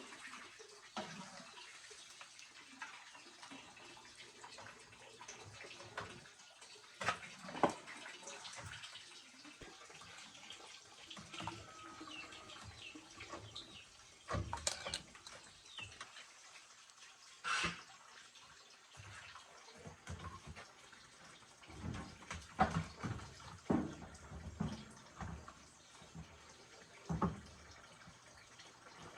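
Intermittent splashing of water with scattered small knocks and clunks.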